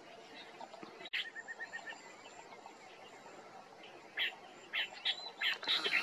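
Birds chirping in a reedbed: a brief fast run of even, high notes about a second in, just after a sharp click, then short sharp chirps that come more often and grow louder over the last two seconds.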